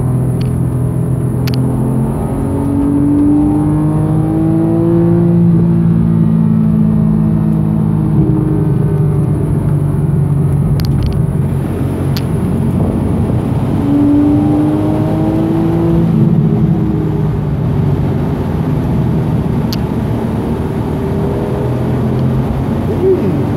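Porsche 991.1 Carrera's 3.4-litre flat-six heard from inside the cabin, its note rising as the car accelerates at about 2 and 14 seconds in and again near the end, holding steady in between. A few faint clicks sit over it.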